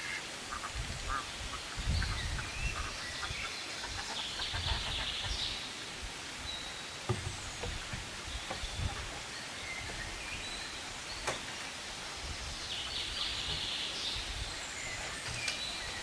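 Short, high bird calls, one cluster about four seconds in and another near the end, over a low rumbling background.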